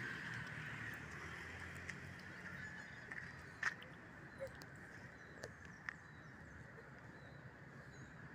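Steady rush of a flowing river, with a few short sharp knocks over it, the loudest about three and a half seconds in.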